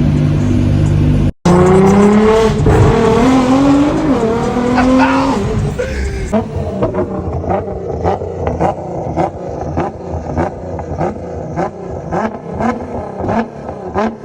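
Car engine running, then, after a brief cut, accelerating hard with its pitch climbing in steps as it shifts up. About six seconds in it gives way to a quieter stretch with a regular beat about twice a second.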